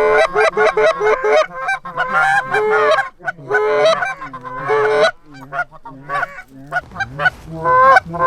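Geese honking and clucking in quick, overlapping calls, many in a row, as a flock approaches a decoy spread.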